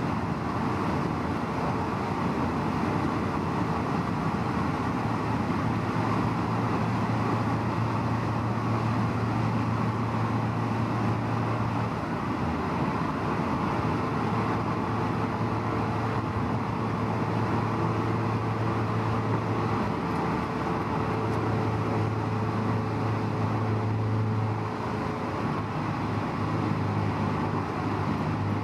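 Honda S2000 on the move, heard from inside the car: a steady low engine drone over a constant rush of tyre and road noise, with small shifts in the drone as the speed changes.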